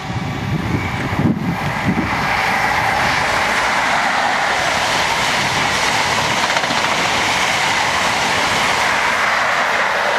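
East Coast InterCity 125 High Speed Train passing through the station at speed. The noise builds over the first two seconds into a steady roar of wheels on rail as the Mark 3 coaches go by close, with the rear Class 43 power car coming past at the end.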